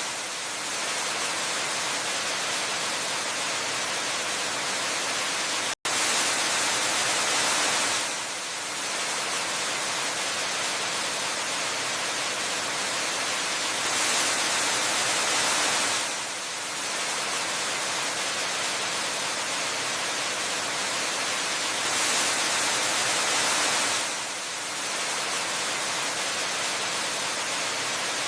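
Waterfall rushing steadily, a dense even hiss that swells a little every eight seconds or so. It cuts out for a split second about six seconds in.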